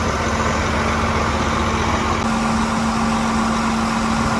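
Farm tractor's engine running steadily, with a constant droning hum that grows stronger about two seconds in.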